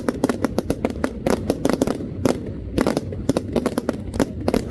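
Fireworks going off in quick, irregular succession: a dense run of sharp bangs and crackles, several a second, over a steady low rumble.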